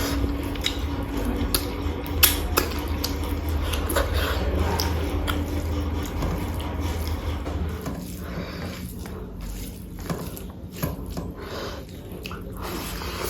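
Close-miked chewing and wet mouth sounds of a person eating pork curry with rice, with scattered sharp clicks and smacks.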